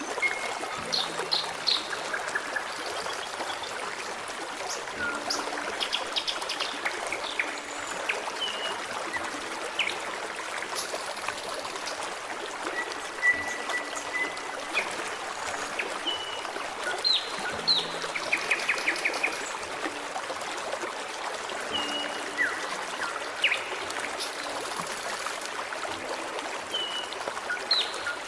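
Forest stream running steadily with a babbling trickle, and birds singing over it: scattered short chirps, a few rapid trills, and one held whistle about halfway through.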